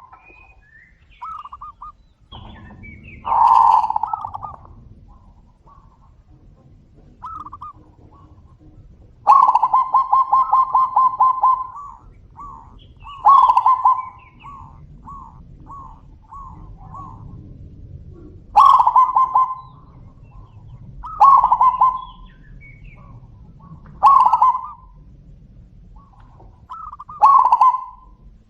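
Zebra doves (perkutut) cooing, with a short phrase every two to three seconds and one longer, rapidly pulsed trill of cooing in the middle, as birds answer each other.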